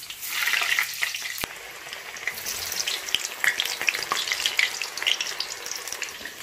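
Eggplant strips deep-frying in hot oil, with a louder rush of sizzling in the first second as strips go into the oil, then steady crackling sizzle with scattered pops. A single sharp click about a second and a half in.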